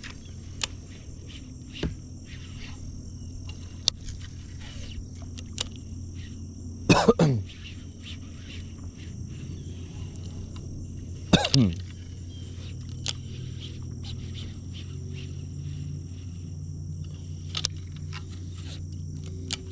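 Steady high-pitched outdoor insect chorus with scattered small clicks. It is broken twice, about seven and eleven seconds in, by a loud brief sound that falls quickly in pitch.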